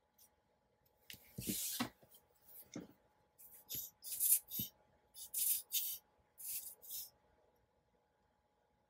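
Paper being worked by hand in crafting: about half a dozen short scratchy rubbing strokes on paper between about one and seven seconds in.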